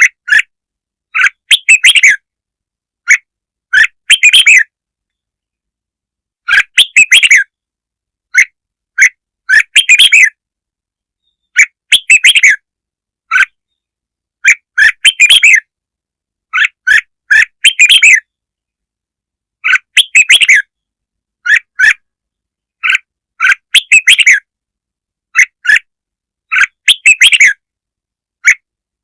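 Red-whiskered bulbul song: short, bright warbled phrases, one every second or two, with dead silence between them. It is a lure recording made to draw in other bulbuls.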